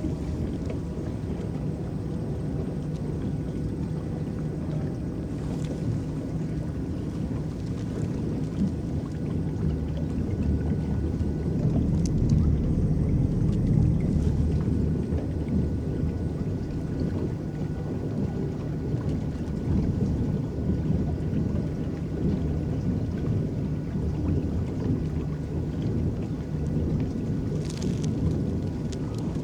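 Electric boat moving across a lake: a steady low rumble of water washing against the hull, swelling a little around the middle, with a few faint clicks.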